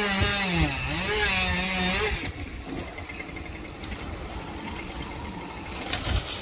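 Chainsaw engine revving, its pitch dipping and climbing back for about two seconds as it works, then dropping to a quieter, rougher running sound.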